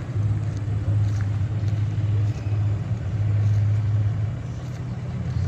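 A car engine running at idle: a steady low rumble that swells and eases slightly.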